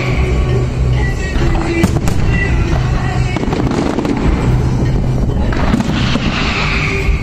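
Fireworks going off, with sharp bangs about two seconds in and a crackling shower of sparks near the end, over the music that accompanies the show.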